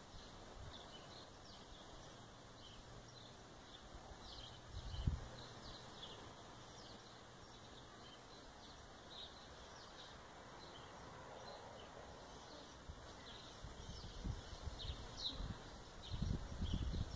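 Small birds chirping in the background, many short high falling notes scattered throughout, over quiet garden ambience. A single low thump comes about five seconds in, and low rumbles build near the end.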